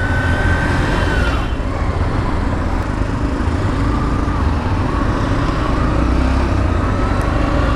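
Motorcycle riding along a road: a steady low rumble of wind and engine, with a faint whine that fades out about a second and a half in.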